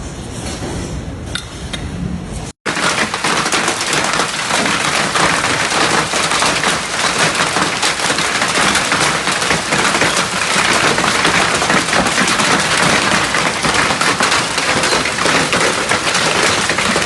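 Hail and heavy rain pounding on hard surfaces: a dense, loud clatter of countless sharp impacts that starts abruptly after a short break about two and a half seconds in. Before the break, a quieter rumble of wind and rain with a few clicks.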